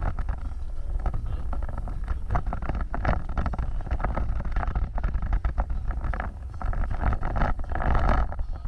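Off-road vehicle driving over rough ground: a steady low rumble with many short knocks and jolts, and wind on the microphone, growing louder near the end.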